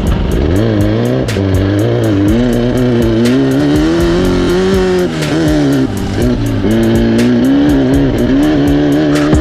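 Off-road race car engine revving hard, its pitch rising and falling every second or so as it runs the course, with music playing over it.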